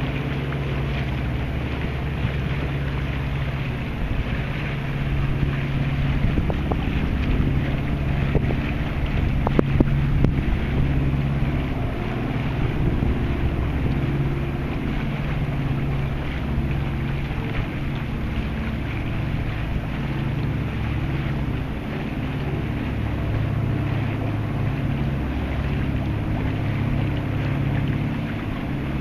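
The Tayana 55 sailboat's auxiliary engine runs steadily at low speed while the boat manoeuvres, with wind noise on the microphone. There is one short knock about ten seconds in.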